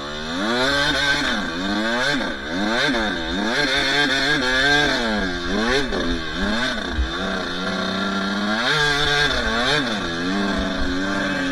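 Two-stroke dirt bike engine revving up and down over and over as it is ridden, its pitch rising and falling every second or so with throttle and gear changes.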